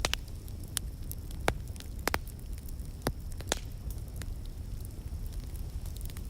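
Wood fire crackling in a fireplace: scattered sharp pops, about one a second and fewer toward the end, over a steady low rumble of burning.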